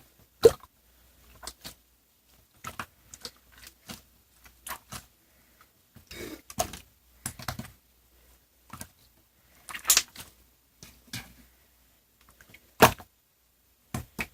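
Irregular clicks and knocks with short rustling bursts between them, unevenly spaced, the loudest knocks about half a second in and near the end.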